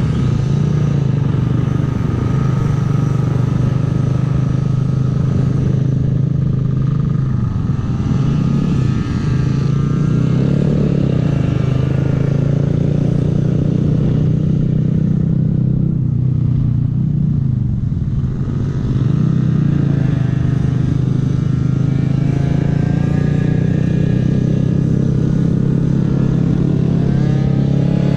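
Honda 125 cc single-cylinder mini motorcycle engine running under way, its pitch rising and falling a little as the rider works the throttle, over a steady low rumble of wind on the microphone.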